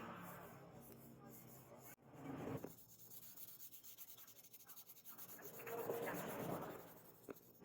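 Slow, faint rubbing strokes of steel being worked by hand with an abrasive, swelling and fading a few times.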